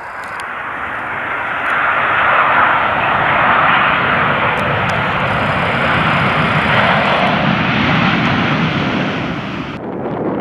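BAe 146-family jet airliner with four turbofan engines, passing close on its landing approach: a loud, steady rushing engine noise that builds over the first two seconds. Near the end the engine noise thins and a lower rumble of wind on the microphone comes up.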